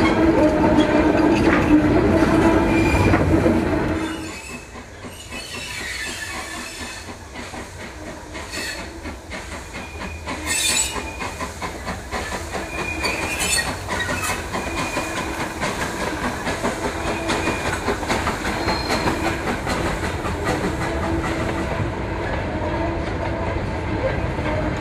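Train of steel coal hopper wagons rolling past. Close up the wheels give a loud rumble with a steady ringing tone. About four seconds in this gives way to a quieter, more distant train, its wheels clicking over the rail joints with a couple of brief high squeals.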